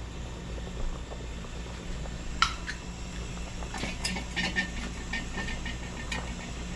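A metal utensil clinking and tapping against a pot of simmering sauce: one sharp clink, then a run of lighter clinks near the middle, over a steady low hum from the kitchen range.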